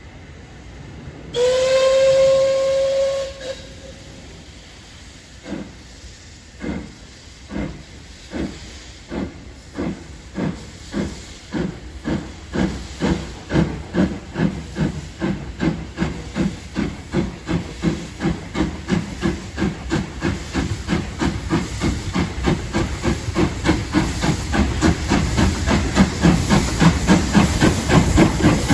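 Caledonian Railway 812 Class 0-6-0 steam locomotive sounds one steady whistle of about two seconds, then starts away. Its exhaust chuffs begin slowly and quicken and grow louder as it gathers speed, over a steady hiss of steam.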